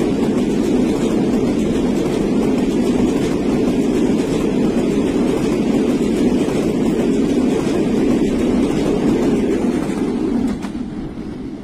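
Rumble and clatter of passenger coaches' wheels running over the rails as a train passes close by at speed; it holds steady, then fades away near the end.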